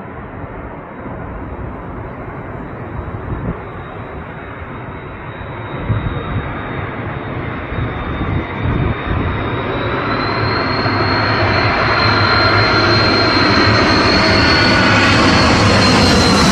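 Jet airliner engines growing steadily louder as the aircraft approaches, with a high whine that rises slightly in pitch about two-thirds of the way in.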